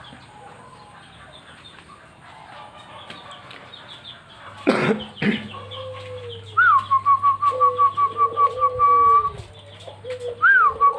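Caged zebra doves (perkutut) cooing in low arched notes. Over them a bird gives a rising note followed by a quick run of even, high staccato notes, about five a second, starting about six seconds in and again near the end. A loud short call comes about four and a half seconds in.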